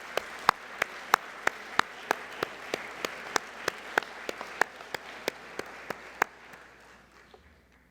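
Audience applauding, with one set of loud, evenly paced claps, about three a second, standing out above the rest; the applause dies away near the end.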